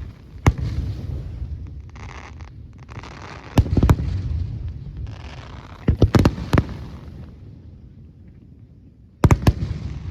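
Fireworks display: aerial shells bursting with sharp bangs in groups, about half a second in, near the middle, and a close pair near the end, each trailing off in a rolling echo.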